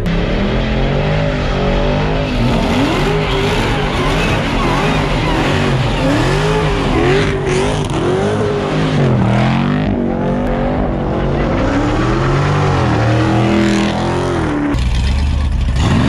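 A car engine revving hard over and over, its pitch climbing and dropping again and again.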